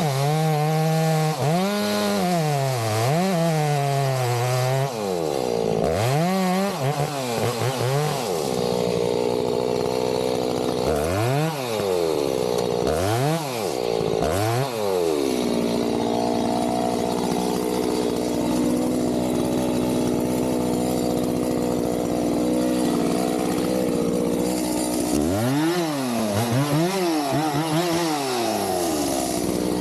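Gas chainsaw revving up and down in repeated throttle bursts, then held at a steady high speed for about ten seconds while cutting into the trunk, then blipped up and down again near the end.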